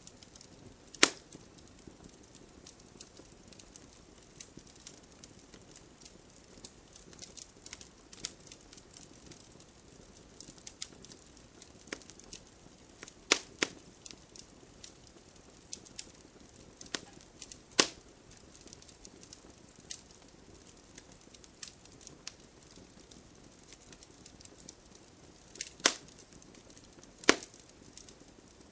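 Wood fire crackling: a low hiss with scattered small ticks and five sharp pops, one about a second in, two in the middle and two close together near the end.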